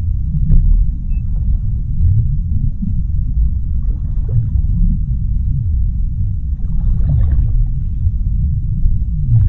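Underwater ocean ambience: a loud, deep, steady rumble with slowly swelling low tones, and faint bubbling crackles rising briefly above it about seven seconds in.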